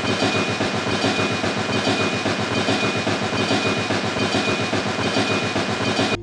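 A small machine running with a fast, even clatter and a steady high whine over it, cutting off suddenly near the end.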